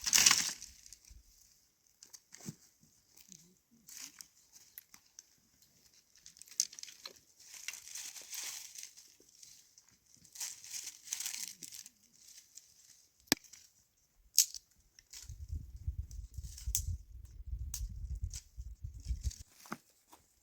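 Rustling and crinkling in repeated patches, with scattered sharp clicks. A low rumble joins from about three-quarters of the way through and stops shortly before the end.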